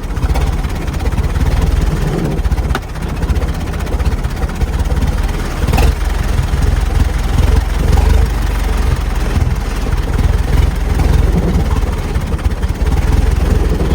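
Engine of a chain-driven 1914 fire truck turned hot-rod race car, running under way with a heavy low rumble and a couple of sharp knocks.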